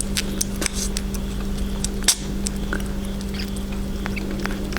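Sugar glider chewing and crunching a snack stick: a run of quick, irregular clicks, one louder than the rest about two seconds in, over a steady low hum.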